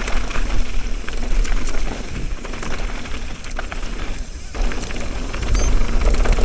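Mountain bike descending a rough dirt trail at speed: wind buffeting the camera microphone, with tyres rumbling and the bike rattling over bumps and a brief lull about four seconds in.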